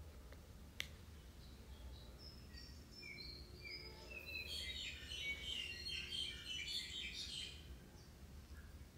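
Birds chirping: scattered short high chirps, then a dense flurry of overlapping chirps from about four to seven and a half seconds in, over a steady low hum. A single sharp click about a second in.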